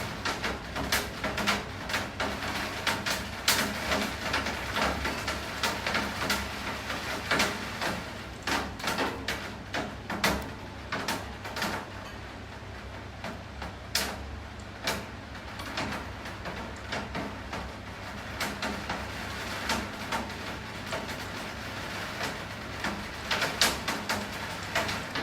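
Rain falling, with many close drops striking a hard surface as irregular sharp taps over a steady hiss. The taps thin out about halfway through and come thicker again near the end.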